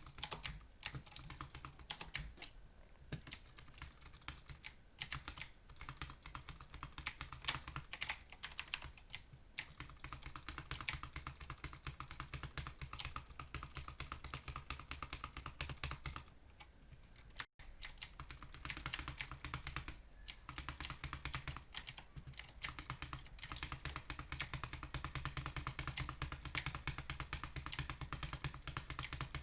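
Rapid, irregular clicking that runs almost continuously, pausing briefly a few times, over a steady low hum.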